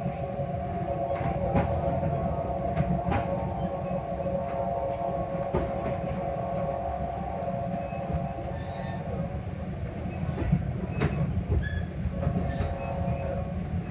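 Metra commuter train heard from inside a passenger car: a steady low rumble with a steady hum and scattered sharp clicks. The hum fades out about two thirds of the way through and comes back near the end.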